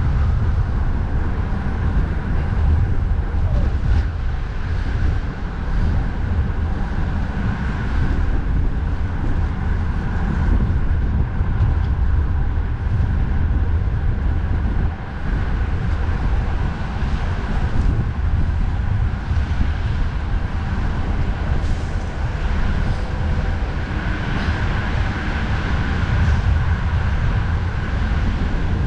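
Steady low rumble of wind on the microphone mixed with road traffic noise.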